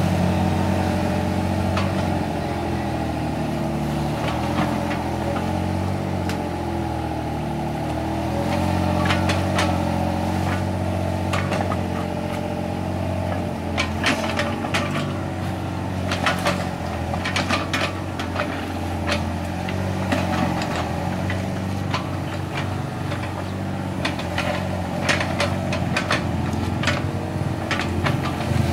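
Small excavator's diesel engine running under working load, its pitch stepping up and down as the hydraulics are worked. Short sharp knocks and clanks come through repeatedly, more often in the second half.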